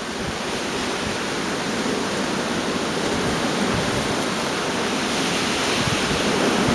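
Gale-force wind rushing in a steady roar, swelling a little toward the end.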